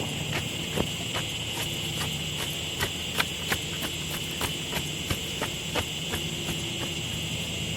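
Soil being tamped into a footing hole, a bar striking down about three times a second until about six seconds in. A steady chorus of crickets runs underneath.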